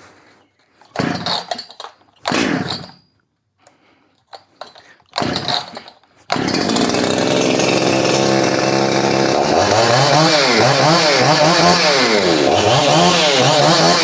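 Efco 165 two-stroke chainsaw, freshly ported, being pull-started: a few short yanks of the starter cord, then it catches about six seconds in and runs, its throttle blipped up and down several times. It runs with its popped-off impulse line refitted.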